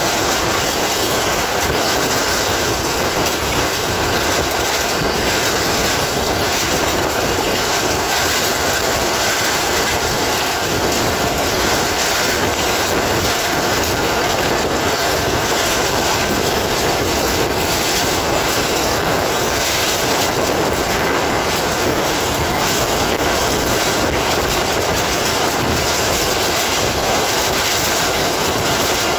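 Pakistan Railways passenger train running steadily along the track, heard from an open coach window: an even, continuous din of wheels on rails.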